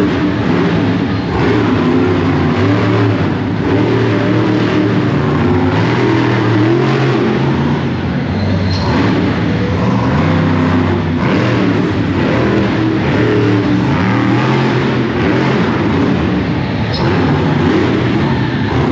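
Monster truck engines revving loud and continuously, their pitch stepping up and down as the throttle is worked. These are supercharged V8s.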